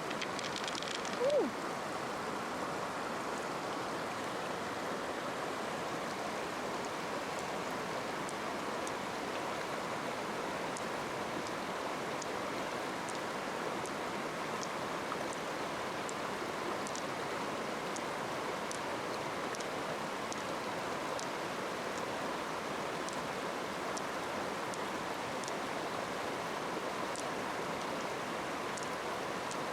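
Steady rush of running stream water, with faint scattered ticks over it and a short pitched call about a second in.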